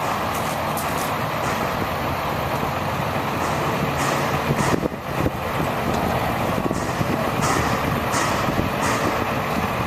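2002 International mechanics truck engine running steadily, with several short high hisses at intervals and a brief drop in level about five seconds in.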